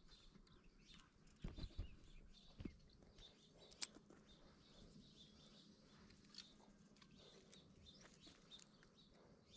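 Near silence: faint bird chirps in the background, with a few soft bumps between one and three seconds in and a single sharp click near four seconds.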